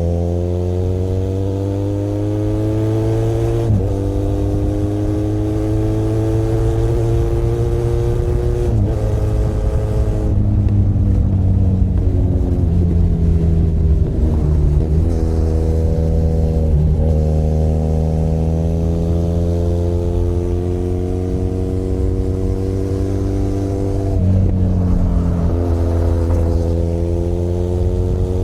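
Benelli Leoncino 500 Trail's parallel-twin engine under way. Its pitch climbs steadily as it pulls and drops sharply at several gear changes.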